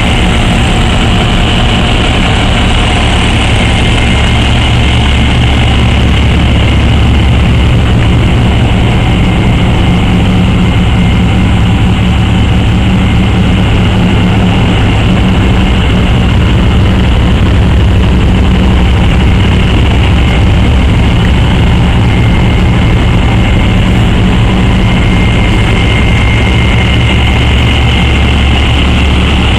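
Diesel engine on a refrigerated box truck idling steadily and loudly, its pitch unchanging throughout.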